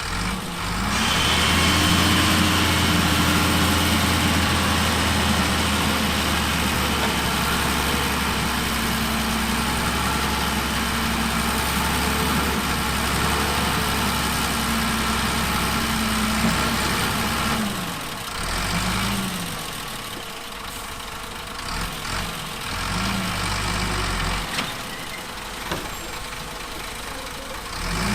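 Heavy construction machine's diesel engine running steadily and loud under load for most of the first seventeen seconds, then easing off, with its revs rising and falling in short swings several times after that.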